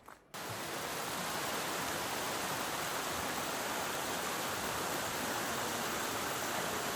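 Steady rushing of Sol Duc Falls, the sound of falling water heard from the trail as the falls come near. It starts abruptly about a third of a second in and holds even.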